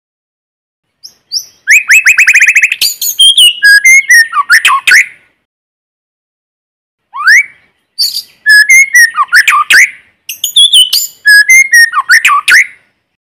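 White-rumped shama singing: three loud phrases of rich, varied whistles, quick trills and glides, each broken off by a short silent pause.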